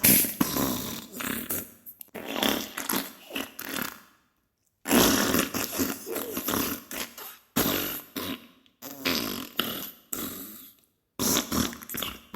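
Diarrhea sound effect: a run of wet, sputtering farts and splatters of uneven length, broken by short pauses, the longest of about a second near the middle.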